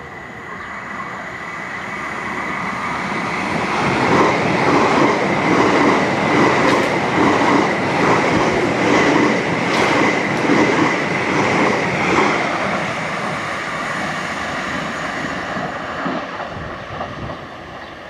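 A Greater Anglia Class 720 Aventra electric multiple unit passes close by. It swells as it approaches, then gives a loud, regular beat of wheels over the rails about every two-thirds of a second, with a steady high whine over it. It fades away over the last few seconds.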